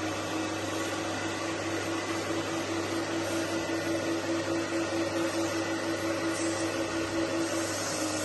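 Carpet and upholstery cleaning extraction machine running steadily, its vacuum motor humming with a faintly pulsing tone.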